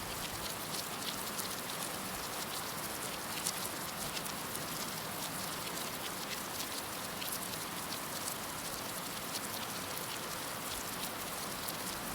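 Heavy rain falling steadily, a dense hiss peppered with the sharp ticks of individual drops striking a surface.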